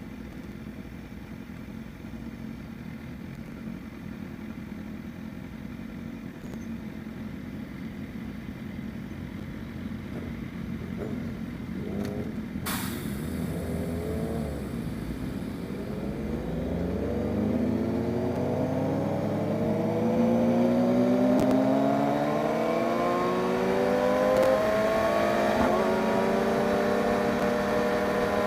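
BMW S1000RR inline-four engine accelerating through the gears, pitch rising and falling back with each shift and getting louder over the second half. A single sharp click about halfway through.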